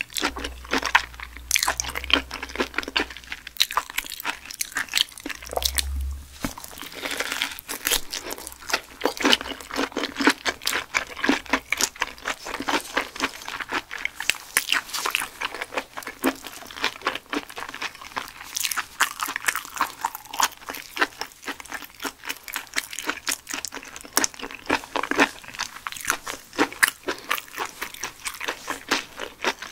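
Close-miked chewing of raw mullet: a dense run of wet, crunchy bites and mouth clicks.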